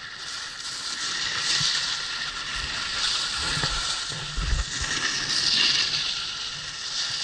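Skis sliding and scraping over snow through a series of turns, the hiss swelling and fading with each turn. A few low thumps around the middle.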